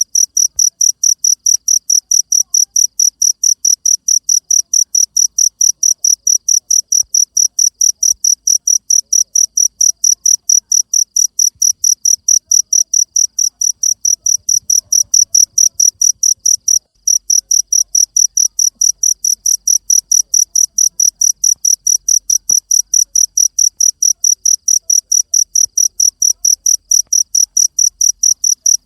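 A cricket chirping steadily: a high-pitched chirp repeated evenly several times a second, with one brief break partway through.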